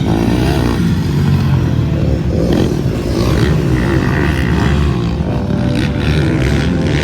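Motocross dirt bike engines running, loud and continuous.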